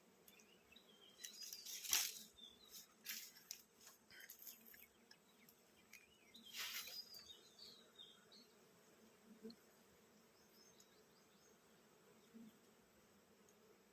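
Faint buzzing of wild honeybees, broken by a few sharp crackling rustles about two, three and seven seconds in, with brief bird chirps.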